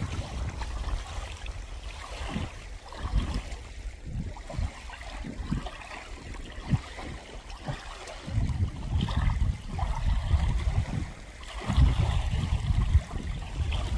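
Wind buffeting the microphone in uneven gusts, a low rushing rumble that swells twice in the second half.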